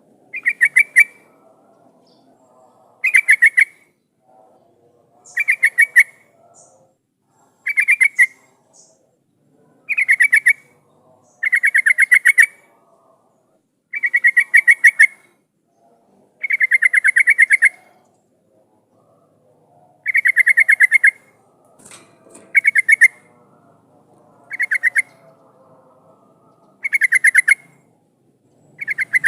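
Yellow-vented bulbul (trucukan) singing in loud, short phrases of rapid bubbly notes, one phrase about every two seconds. It is a lure song played to get other trucukan to answer and sing.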